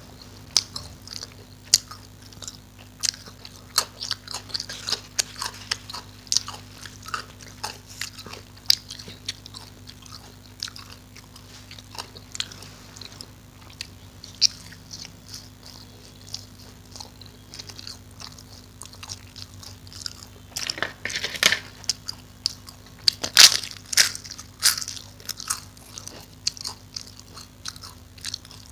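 A person chewing and biting food close to the microphone, with many sharp crunches and mouth clicks; the crunching is densest and loudest about two-thirds of the way through. A faint steady low hum runs underneath.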